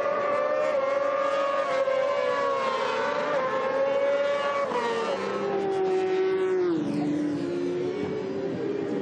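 Racing superbike engines at high revs, more than one at a time, with the pitch dropping in steps about five and seven seconds in.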